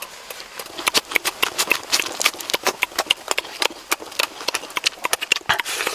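Close-up eating sounds: mouths chewing and smacking on grilled fish and lettuce, a fast, irregular run of wet clicks.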